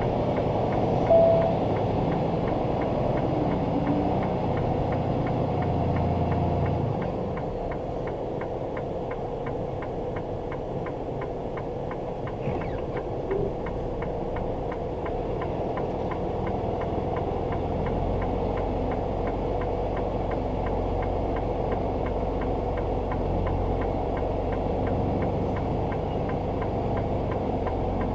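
Semi-truck's diesel engine idling: a steady low drone, with a short louder sound about a second in. The drone eases off about seven seconds in and changes again around eighteen seconds.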